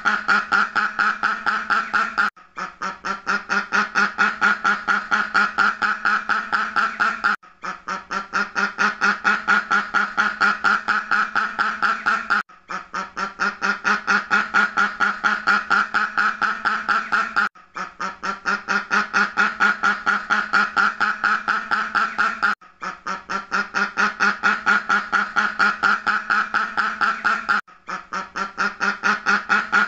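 Duck quacking rapidly, many quacks a second, in a looped recording that breaks briefly about every five seconds and starts again.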